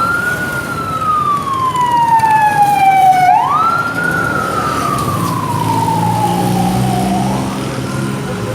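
Emergency-vehicle siren wailing: the pitch rises quickly, then sinks slowly for about three seconds, twice over with a third rise near the end, the last one weaker. A vehicle engine runs underneath.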